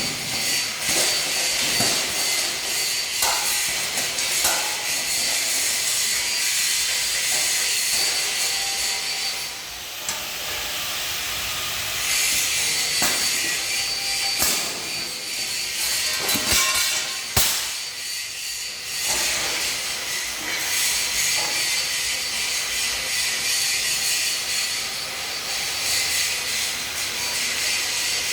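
Angle grinder with a cutting disc cutting through 2 mm steel plate: a steady, high-pitched grinding noise with a thin whine running through it, easing off briefly twice.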